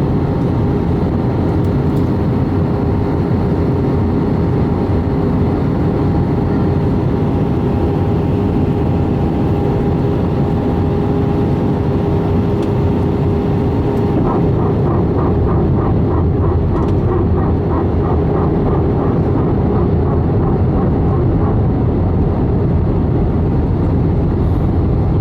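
Airbus A318 airliner cabin in flight: the steady rushing noise of engines and airflow with a constant hum. From about halfway through, a light ticking comes in at about three a second.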